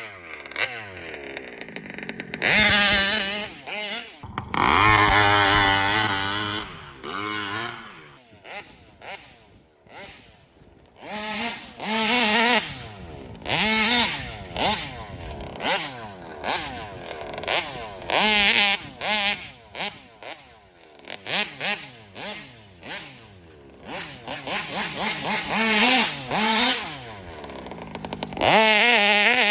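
A large-scale gas RC car's 71 cc two-stroke engine revving hard in repeated short bursts, the pitch climbing and dropping back toward idle between throttle blips as the car is driven.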